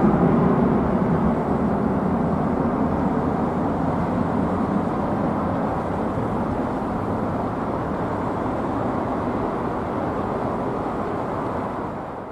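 Boeing 777-200ER jet airliner's twin engines rumbling at takeoff power as it climbs away, slowly growing quieter, then fading out near the end.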